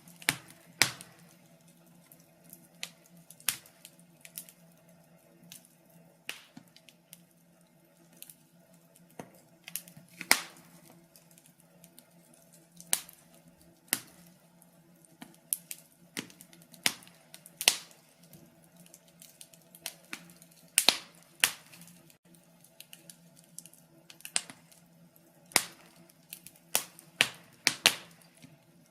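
Wood fire crackling in a fireplace: sharp, irregular pops and snaps, about one or two a second, over a faint low steady hum.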